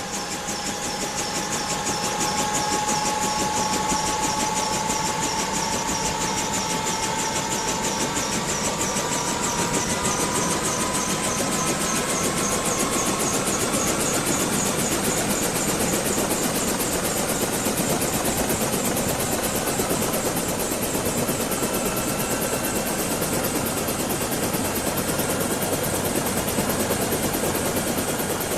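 Small quadcopter drone's propellers whining steadily, the whine rising slowly in pitch over the first half as the motors speed up.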